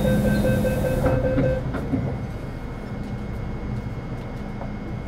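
Onboard an MTR Metro Cammell M-Train (GEC GTO chopper EMU): steady tones and a high hiss that cut off about one and a half seconds in, leaving a quieter, steady running rumble.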